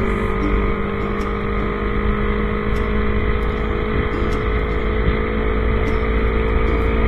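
Yamaha YZF-R25 motorcycle engine running at a steady cruising speed, a constant drone with a heavy low rumble underneath.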